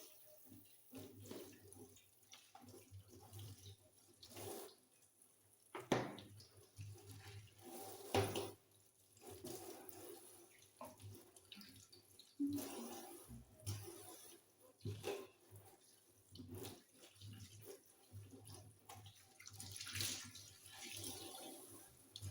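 Kitchen sink being washed: water running from the tap, broken by scattered knocks and clunks, over a low steady hum.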